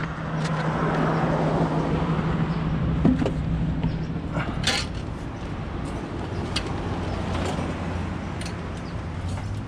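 Bucket truck's engine running steadily, its hum settling to a lower pitch about halfway through, with scattered clicks and knocks over it.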